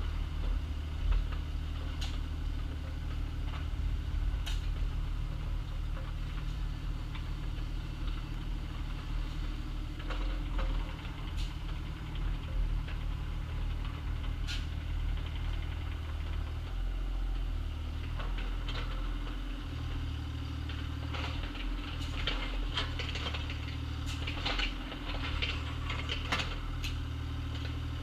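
Excavator engine running steadily, its pitch and load shifting now and then, with scattered knocks and scrapes of the digging work. The knocks come more often near the end.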